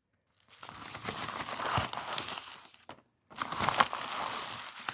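Packaging crinkling as a mailed package that has already been cut open is opened up and handled, in two stretches with a short silent gap about three seconds in.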